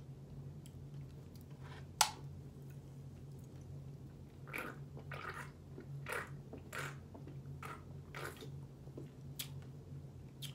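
A person chewing food close to the microphone, with irregular wet mouth noises, over a steady low hum. A single sharp click about two seconds in.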